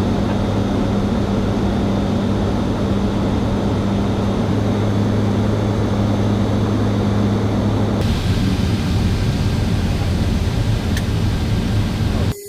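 C-130J Super Hercules turboprop engines and six-blade propellers running: a steady loud drone with a deep hum over a broad rush. About eight seconds in the deep hum drops away, leaving the steady rush, which cuts off sharply near the end.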